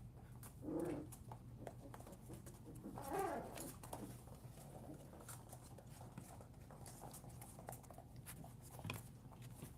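Puppies making two short vocal sounds, about a second in and about three seconds in, over scattered light clicks and scuffling.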